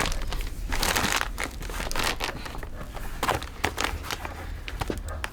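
Irregular rustling and crackling of dry material being handled, with scattered short knocks.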